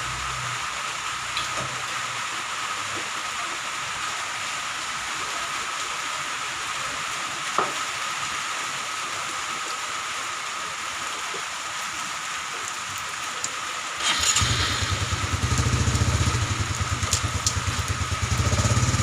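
Steady hiss of rain. About three-quarters of the way through, a small engine suddenly starts running with a low, even throb and becomes the loudest sound.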